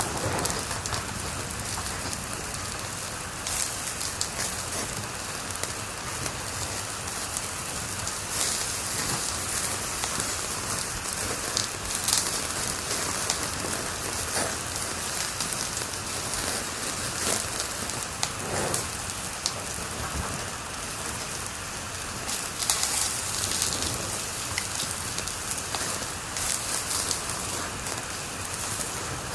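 Wood fire crackling in a fireplace: a steady hiss with frequent small pops and a few louder snaps.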